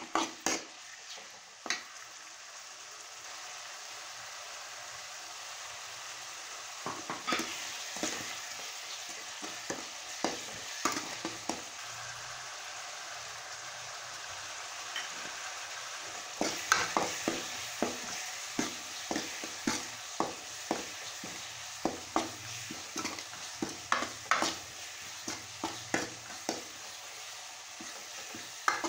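Chopped onion, tomato and green chilli sizzling in oil in a kadai, with a steel ladle clinking and scraping against the pan as they are stirred. The ladle strikes stop twice for a few seconds while the frying hiss goes on, then come thick and fast again.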